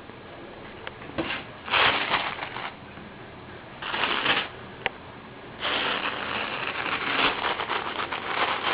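Rustling and scratching from a kitten at play: three scratchy bursts with small clicks, the last and longest starting past the middle.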